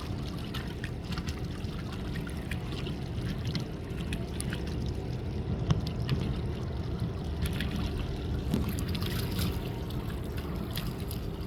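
Water lapping and splashing, with small ticks and splashes scattered over a steady low rumble.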